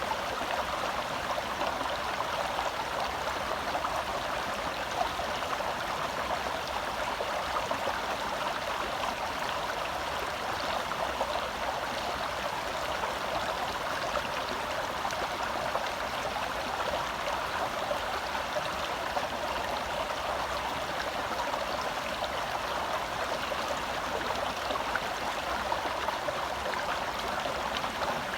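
Shallow forest stream flowing and burbling over rocks, a steady rushing with fine splashing detail.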